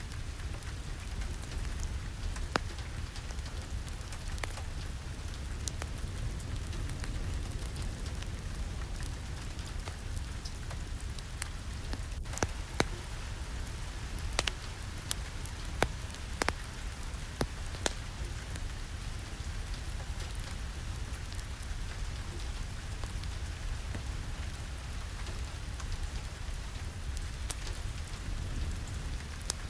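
Steady rain with a low rumble, mixed with a crackling wood fire in a fireplace, heard as scattered sharp pops that cluster around the middle.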